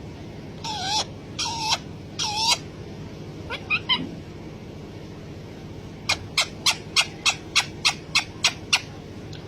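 Parrot calling: three drawn-out calls in the first few seconds and a shorter one near four seconds, then a quick run of about a dozen short, sharp chirps at roughly four a second.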